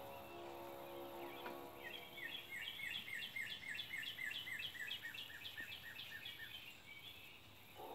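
A songbird singing a quick run of down-slurred chirps, about five a second, for roughly five seconds, starting about two seconds in.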